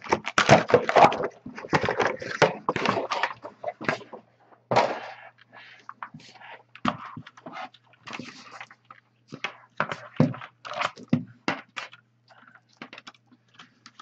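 Handling noise from unboxing: cardboard box and packing rustling and scraping, then scattered knocks and clicks as the Filco Majestouch keyboard is lifted out and set down and its USB cable is handled. The rustling is dense for the first few seconds, then thins to separate knocks.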